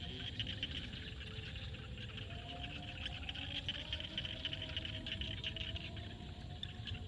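Dense evening chorus of frogs and insects in a field: a steady high chirring made of rapid ticks, with lower calls that drift up and down in pitch, over a low rumble.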